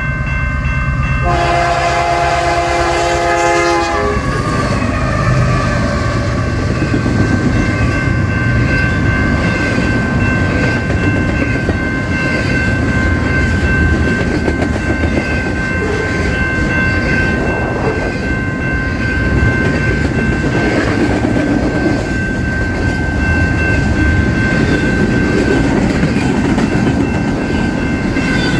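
A diesel locomotive's multi-chime air horn sounds a chord of several notes, loudest from about a second in until about four seconds in. The train then rolls past with a steady rumble, clickety-clack and a steady high-pitched tone.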